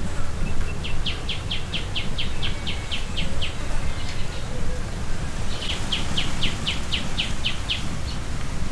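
A small bird singing two runs of quick repeated high notes, about five a second, each run lasting a couple of seconds, over a steady low outdoor rumble.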